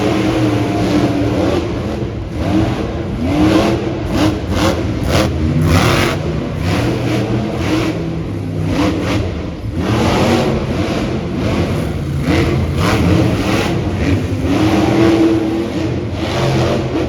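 Monster truck engines revving hard, the pitch climbing and falling again and again.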